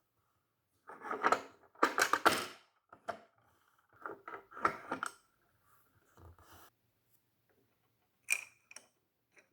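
Small plastic pieces of a Hello Kitty toy refrigerator being handled: clicks, taps and rattles in several short bursts, the loudest about one to two and a half seconds in, with a few single clicks near the end.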